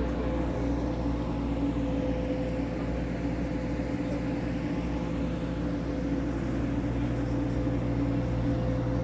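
A vehicle engine running steadily, a low hum with a constant pitch.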